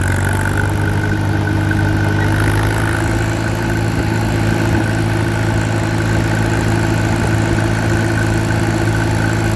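Allis-Chalmers WD tractor's four-cylinder engine running steadily at an even speed.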